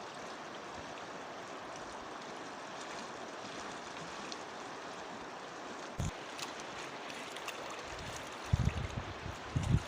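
Steady rush of a flowing river. There is a brief low thump about six seconds in, and low rumbling bumps near the end.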